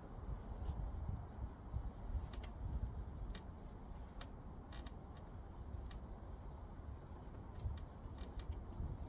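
Scattered light clicks and ticks, about a dozen at irregular intervals, over a steady low rumble.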